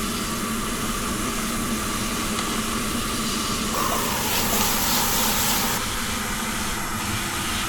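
Chicken frying in a pan over a small camp stove: a steady hissing sizzle mixed with the burner's rush. About four seconds in, the hiss turns brighter for roughly two seconds.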